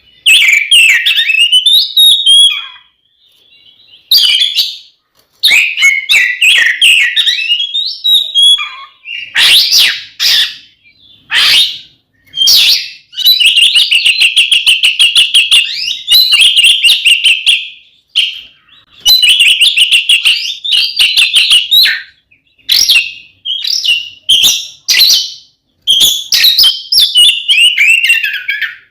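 Oriental magpie-robin (kacer) singing loud, varied phrases of whistles and rapid trills with short pauses between, including a long run of rapid trill notes in the middle. This is the excited fighting song that keepers play to provoke other magpie-robins.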